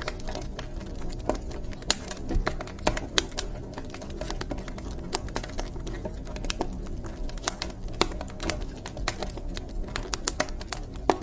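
Wood fire crackling in a fireplace: irregular sharp pops and snaps of varying loudness over a low steady rumble of the burning.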